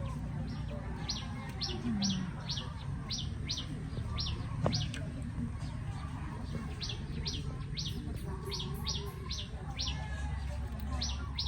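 A bird chirping: a long run of short, high chirps at about three a second, breaking off for a moment midway before starting again.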